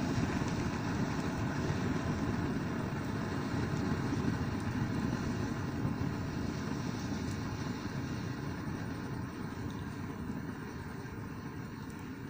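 Bonfire burning with a steady low rush that slowly fades, with a few faint crackles; an aerosol can of foam has caught fire in it.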